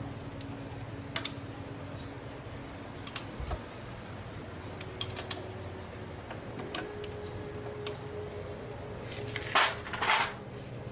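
Scattered light metallic clinks and ticks of tools or parts being handled, over a steady low hum, with two short loud bursts of noise near the end.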